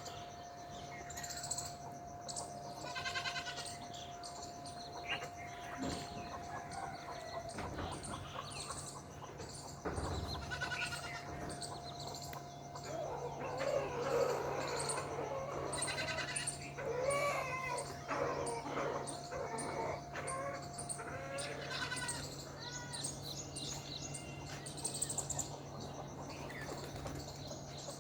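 Livestock bleating again and again, like goats, with birds chirping, over a steady low hum.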